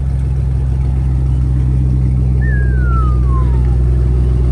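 Car engine running with a steady, deep low rumble that slowly grows louder. About halfway through, a single thin tone glides downward for just over a second.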